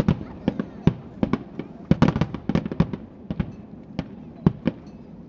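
Fireworks shells bursting over and over in sharp bangs, with a rapid cluster about two seconds in, then fewer, more widely spaced bangs.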